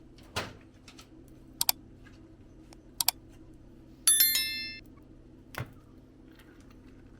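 Metal cookware and utensils clinking: a few light clicks, then about four seconds in a metal piece is struck and rings briefly with a bright tone, followed by a duller knock.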